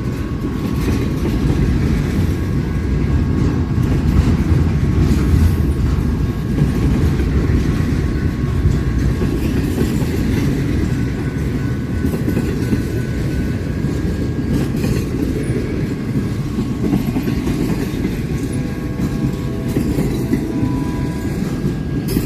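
Railroad cars rolling past with a steady, heavy rumble, with a few faint thin whining tones from the wheels above it.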